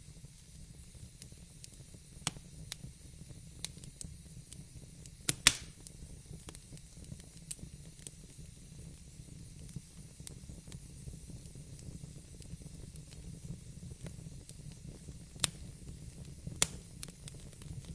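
Wood fire burning in a fireplace: a low steady rumble of the flames with irregular sharp crackles and pops, the loudest snaps about five and a half seconds in and near the end.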